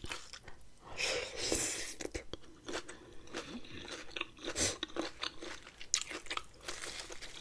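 Close-miked chewing and crunching of food with wet mouth clicks. There are louder crunchy bites about a second in and again a little past halfway.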